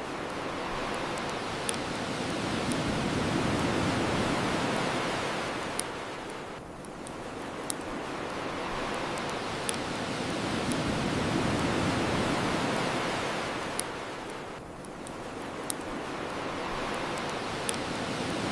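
Ocean waves washing onto the shore in slow swells, one about every eight seconds, with occasional sharp pops from a crackling bonfire over them.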